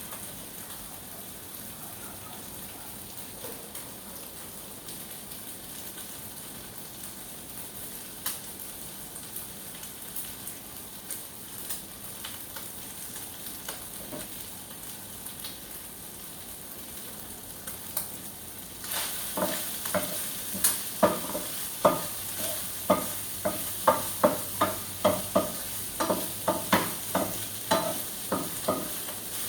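Chicken sizzling as it fries in a pan. From about two-thirds of the way in, a metal spatula knocks and scrapes against the pan over and over, about twice a second, as the chicken is stirred.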